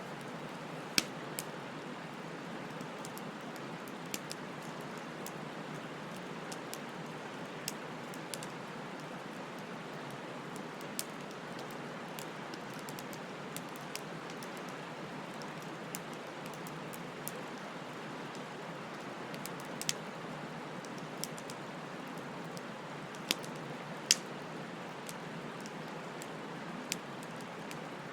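Bonfire crackling: a steady hiss of burning wood broken by scattered sharp pops. The louder pops come about a second in and near the end.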